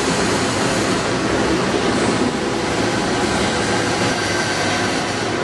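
Bangkok BTS Skytrain train running on the elevated track: a loud, steady rumble and hiss.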